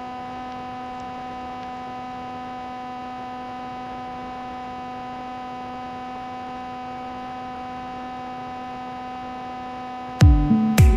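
A steady, unchanging electronic drone with a stack of even overtones, a held synth note in the background music. About ten seconds in, a beat with deep, falling kick-drum hits comes in.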